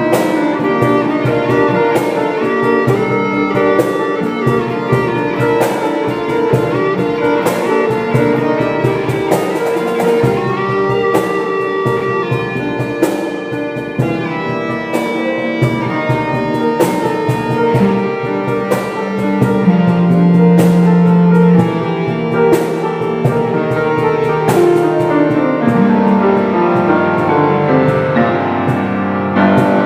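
Instrumental band music: guitar and piano with a steady drum beat, no vocals. Near the end the drums drop away and low held notes ring on.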